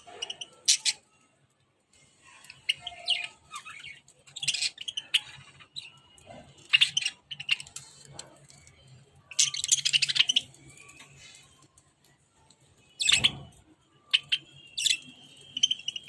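Budgerigars chirping and chattering in short, irregular bursts of high-pitched calls. A single knock sounds about thirteen seconds in.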